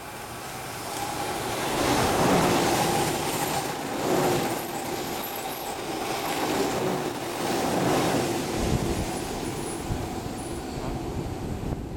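Odakyu 20000 series RSE electric express train passing close by: a rumble of wheels on rail with a steady whine, loudest about two seconds in. The sound swells and eases about every two seconds as each car goes by, then drops off a little near the end as the last car clears.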